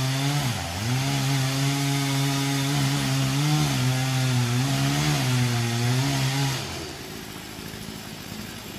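Chainsaw running under load in a cut, its pitch sagging briefly about half a second in and then holding steady with slight wavering. The saw stops about three-quarters of the way through.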